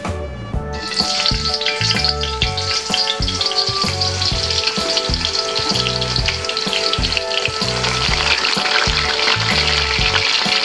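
A slab of unfloured tempe frying in hot oil in a stainless steel wok, a dense sizzle and crackle that starts suddenly about a second in as the tempe goes into the oil. Background music plays throughout.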